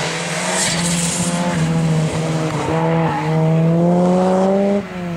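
Ford Sierra RS Cosworth's turbocharged four-cylinder engine pulling hard out of the slalom cones. Its pitch climbs in steps, with brief breaks at the gear changes about two and three seconds in, and it drops off as the driver lifts near the end.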